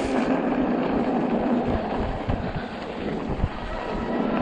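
Ride noise from a 48 V fat-tire e-bike: the fat tyres rolling through slush and wet snow over a faint steady motor hum, with wind buffeting the microphone.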